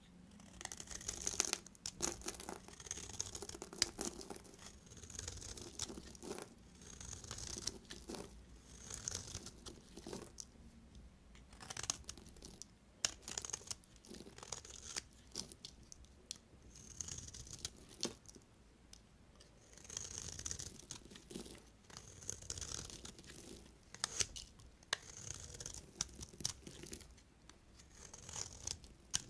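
Knife cutting through bars of soap: repeated slicing strokes every one to two seconds, each a scraping hiss with sharp little cracks as the blade goes through.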